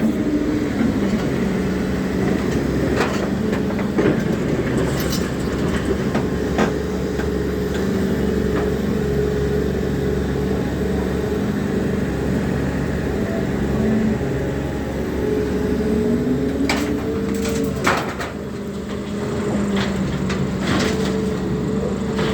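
Volvo EC300DL excavator's diesel engine and hydraulics running under working load. The pitch rises and falls as the machine works, and scattered sharp knocks and clanks fall in between.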